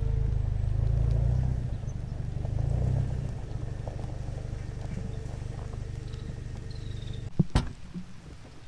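A vehicle engine, likely the Jeep TJ, running with a low, steady rumble that swells twice, then shut off suddenly about seven seconds in. Two sharp knocks follow just after.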